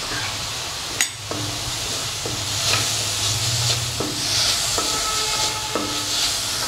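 Onions and ginger-garlic-chili paste sizzling in hot oil in a wok with soy sauce just added, while a spatula stirs and scrapes against the pan about once a second, with a sharp tap about a second in.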